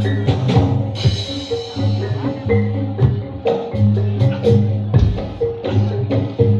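Live Javanese gamelan accompaniment for a reog/jaranan dance: struck metal instruments play a repeating melodic pattern over deep gong tones that sound on a steady pulse, with sharp drum strokes and a bright metallic crash about a second in.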